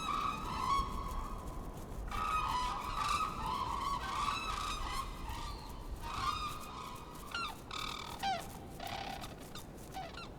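A flock of black-necked cranes calling, many calls overlapping, then fewer, shorter calls that drop in pitch in the second half.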